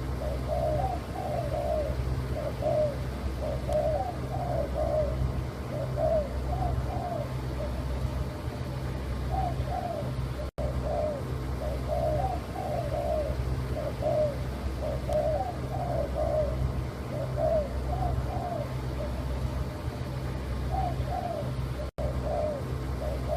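Spotted dove (tekukur) cooing over and over in short repeated phrases, over a steady low hum. The sound drops out briefly twice.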